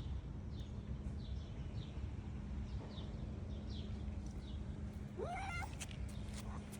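A cat gives one rising meow about five seconds in. Behind it are repeated short, high bird chirps and a steady low hum.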